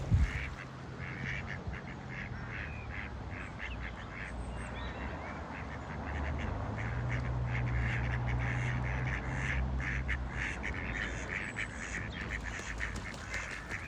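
Pond waterfowl calling: many short quacking calls in quick succession. A low hum swells between about six and ten seconds in.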